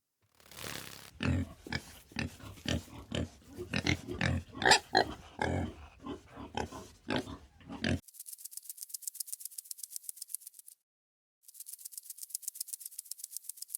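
An animal grunting in a rapid, irregular series, then a fast, dry, high-pitched rattle that comes in two runs with a short break between.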